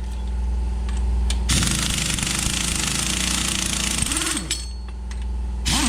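Impact wrench hammering in a long burst from about a second and a half in, then again briefly near the end, its pitch rising and falling as it spins up and winds down, over a steady low hum.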